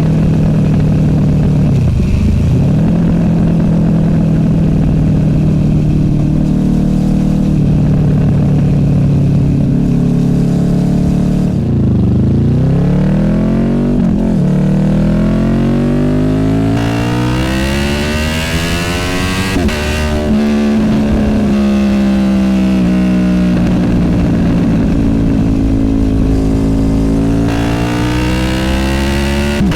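Honda VFR800F's V4 VTEC engine through an SC Project Conic exhaust while riding: steady cruising revs, then from about halfway the revs drop and climb several times as it accelerates through the gears, before settling into a steady cruise near the end.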